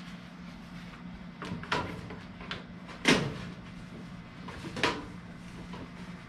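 Knocks and scrapes as an inline duct booster fan is worked into an HVAC duct: a few separate bumps, the loudest about three seconds in, over a steady low hum.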